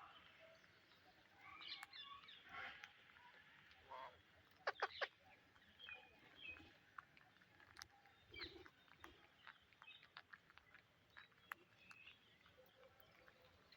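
Psittacula parakeets making soft, scattered chirps and clicks, with three sharp, louder sounds in quick succession about five seconds in.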